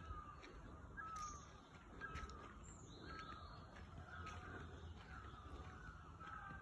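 Faint birds calling: a short falling call repeated about once a second, with a few higher chirps in between.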